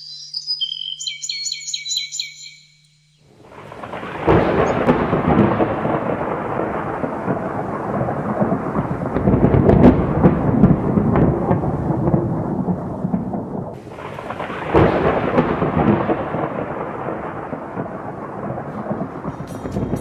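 Thunderstorm: thunder breaks suddenly about four seconds in and rumbles on for about ten seconds, then a second peal about fifteen seconds in rolls away more slowly.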